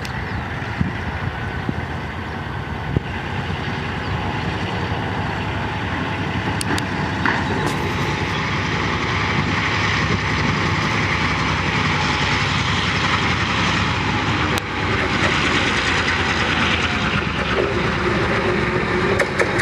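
GM G22 diesel-electric locomotive running while shunting, its engine and rolling wheels a steady din that grows slightly louder, with a few sharp clicks from the wheels and couplings along the way.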